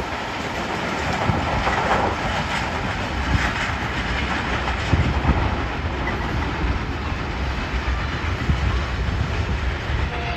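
Passenger train running past on the main line, its wheels clacking over the rail joints.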